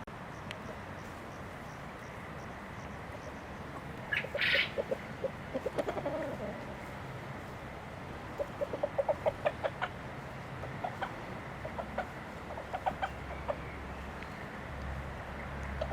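Chickens clucking: a sharp squawk about four seconds in, then quick runs of clucks, with scattered single clucks after that.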